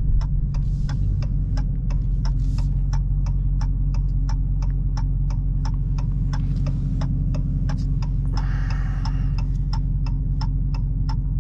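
Car turn-signal indicator ticking steadily, about three ticks a second, over the steady low hum of the Challenger Hellcat's supercharged 6.2-litre V8 heard inside the cabin. There is a brief rushing noise about eight and a half seconds in.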